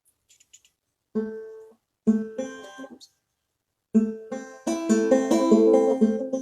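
Clawhammer-style five-string banjo starting a tune: two short plucked phrases separated by brief silences, then steady continuous picking from about four seconds in.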